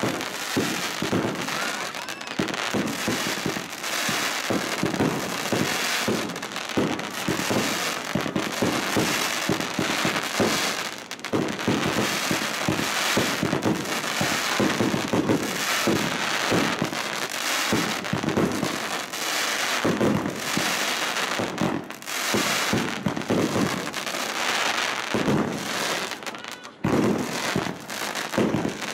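Professional fireworks display: a dense, continuous barrage of aerial bursts and crackling stars, with a brief lull near the end.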